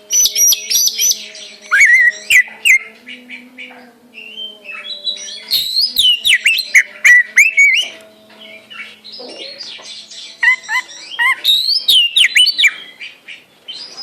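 Songbirds singing loudly in bursts of rapid chirps and sliding whistled notes, with short pauses between phrases and a faint steady hum underneath.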